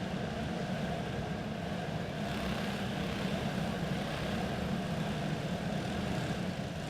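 Clone-engine racing karts running steadily at low speed, an even engine drone with no revving.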